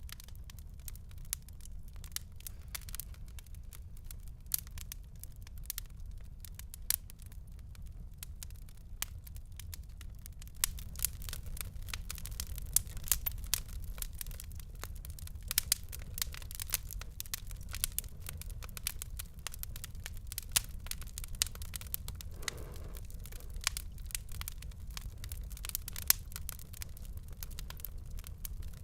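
Fireplace fire crackling: a steady low rumble of the flames under many sharp snaps and pops, which grow busier about a third of the way in.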